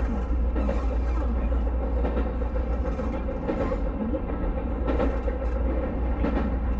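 Running noise of a JR West 221 series electric train, heard from inside the front car: a steady low rumble with a few knocks from the wheels on the track.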